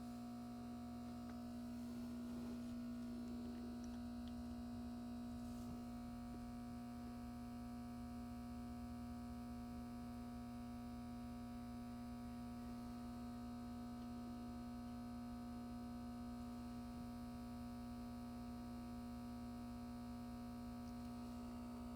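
A steady electrical hum: one constant low tone with fainter steady overtones, unchanging throughout, over quiet room tone.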